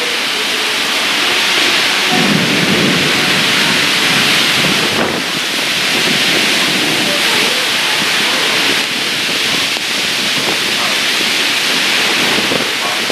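Heavy rain falling steadily, with thunder rumbling underneath from about two seconds in.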